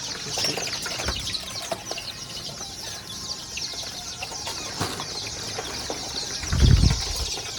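A flock of young layer chickens cheeping and chirping together, a dense, steady high chatter, with a few sharp knocks. A loud low thud-like rumble comes near the end.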